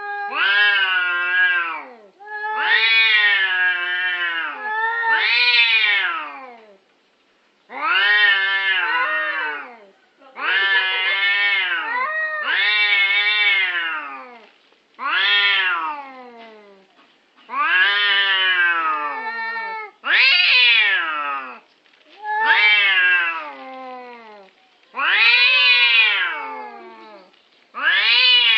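Domestic cats caterwauling in a standoff: long, drawn-out yowls that rise and fall in pitch, one after another with short gaps, the warning calls of cats squaring off over territory.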